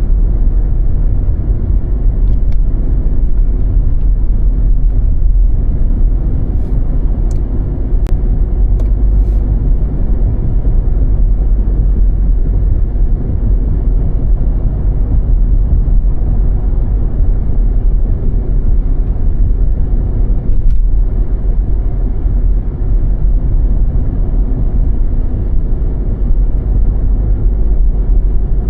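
Car driving on snow-covered roads: a steady, loud low rumble of road and engine noise, with a few faint clicks.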